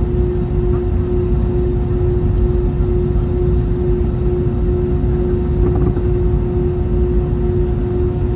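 Airbus A321neo jet engines running steadily. A constant hum sits over a heavy low rumble, with no change in pitch or level.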